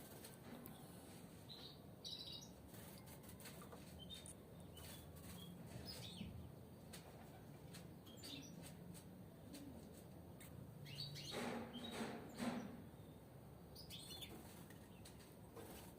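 Caged European goldfinches giving faint, scattered short chirps and twitters, with a louder cluster of calls about eleven to twelve seconds in and occasional light clicks.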